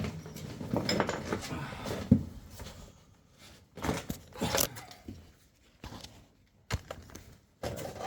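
Irregular clattering, crunching and scraping handling noises from hands-on bodywork, with one sharp knock about two seconds in and quieter gaps later on.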